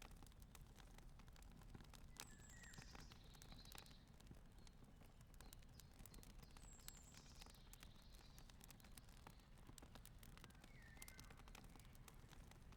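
Faint crackling of a wood campfire: irregular small pops and snaps over a low rumble, with a few short high bird chirps in the background.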